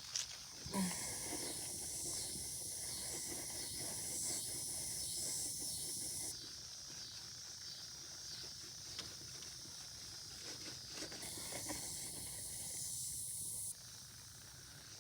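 A steady high-pitched hiss that steps abruptly louder and softer, over faint irregular rubbing as a wet dryer sheet is wiped across the front of a car.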